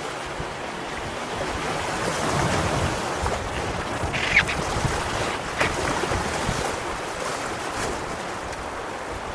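Steady rush of river water and wind around a canoe on the move, with a few short sharp splashes about four and five and a half seconds in.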